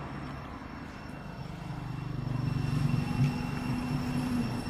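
An engine running with a low, steady hum, growing louder from about a second and a half in.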